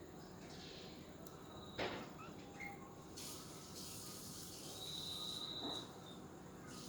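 Pet budgerigars chirping and chattering softly, with scattered short chirps, a brief hissy burst, and a high steady whistle held for about a second near the end. A sharp click about two seconds in is the loudest moment.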